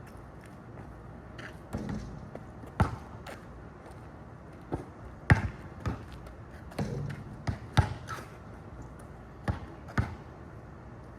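Basketball bouncing on a hard surface: about a dozen sharp thuds at uneven intervals.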